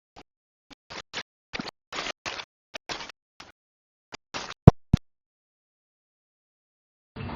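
A run of short, irregular scraping sounds, several a second, then two sharp clicks about a quarter second apart near the five-second mark, then silence.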